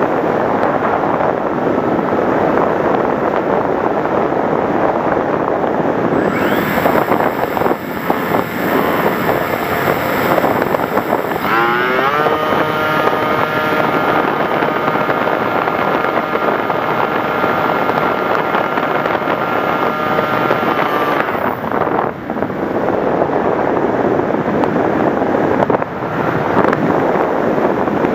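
Wind rushing over the onboard microphone of a model FPV aircraft in flight, with the whine of its motor rising in pitch a little before halfway, holding a steady pitch, then cutting out about three quarters through.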